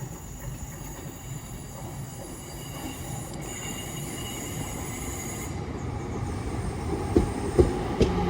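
Class 323 electric multiple unit arriving at a platform, growing steadily louder, with a high electric whine and a few sharp clicks from the wheels near the end.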